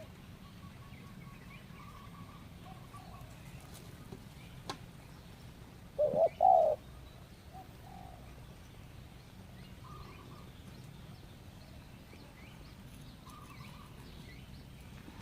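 Spotted doves cooing: a few faint, short coos scattered through, and one loud, close two-part coo about six seconds in. A single sharp click comes shortly before the loud coo.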